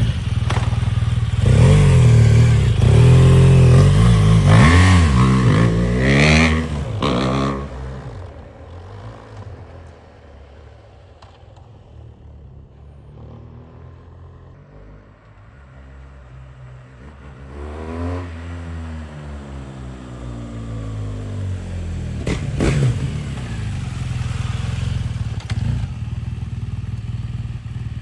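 BMW R1200GS flat-twin boxer engine running through an aftermarket LeoVince exhaust, revved up and down several times in quick succession. It then drops much quieter for several seconds before growing loud again with a falling pitch and one sharp peak, settling into a steady run near the end.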